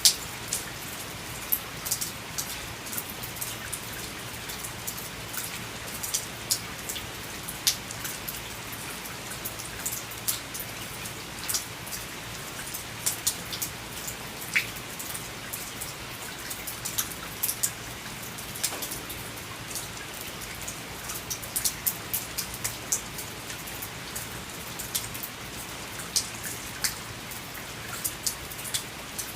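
Rain falling onto a veranda: a steady hiss of rain with frequent, irregular sharp taps of individual drops hitting the surface.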